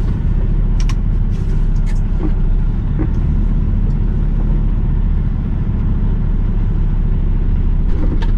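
Semi-truck diesel engine running with a steady low rumble while the tractor is coupled to the trailer's kingpin, with two sharp clicks about one and two seconds in.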